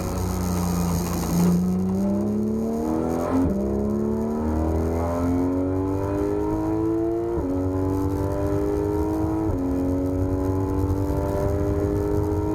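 Porsche 991 GT3 RS's naturally aspirated flat-six accelerating hard under full throttle, climbing in pitch through the gears. It has three quick upshifts, about a second in from the start of the climb, then near the middle and again past two thirds of the way through, each dropping the pitch before it climbs again.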